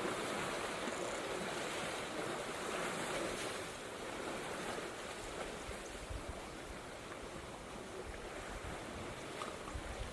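Water rushing and splashing with wind on the microphone, louder for the first few seconds and then settling to a quieter steady hiss.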